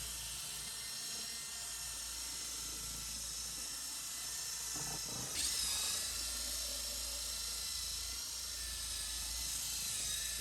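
Power drill fitted with a scrubbing-brush attachment running without a break, scrubbing the floor; its whine dips briefly in pitch about five seconds in as it takes more load.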